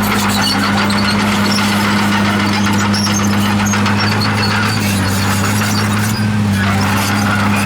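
Komatsu D51PX bulldozer's diesel engine running steadily under work, with scattered short high squeaks typical of steel tracks.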